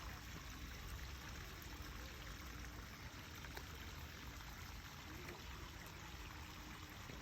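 Steady running water, a continuous even rush.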